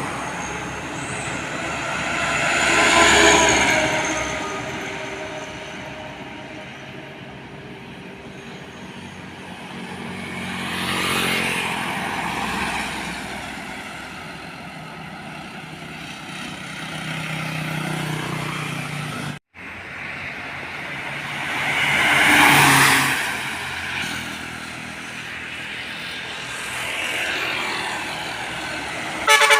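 Heavy trucks passing one after another on a road, their engine and tyre noise swelling and fading with each pass. A loud air horn starts sounding in pulses right at the end.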